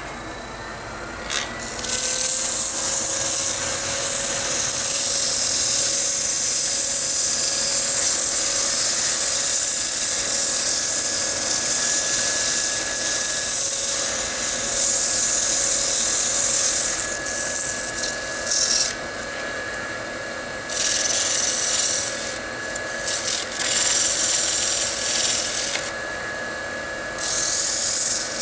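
Wood lathe motor spinning up with a rising whine, then sandpaper held against the spinning wooden bowl, a loud rubbing hiss, to smooth it between coats of shellac. The hiss stops and starts several times in the second half while the lathe runs on with a steady whine.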